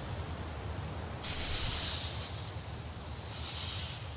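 A high, steady hiss comes in abruptly about a second in and fades near the end, over a low, steady rumble.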